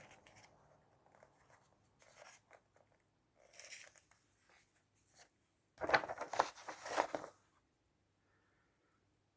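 Paper rustling and crinkling as a folded instruction leaflet is handled and its pages turned: a few short rustles, then a louder spell of crinkling about six to seven and a half seconds in.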